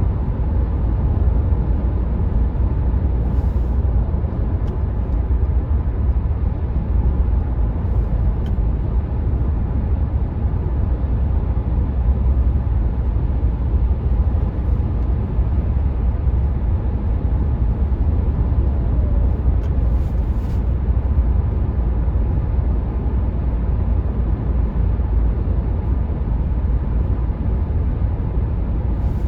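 Steady cabin noise of a 2019 Renault Mégane IV 1.5 dCi diesel cruising on a motorway: a deep tyre and road rumble with a little wind noise over it.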